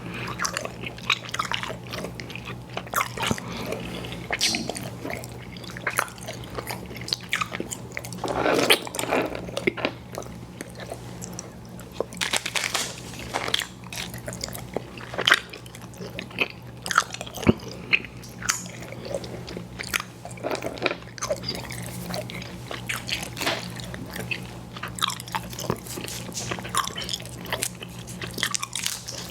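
Close-miked chewing of chewy fruit candy: irregular wet smacks, sticky clicks and bites throughout, over a steady low hum.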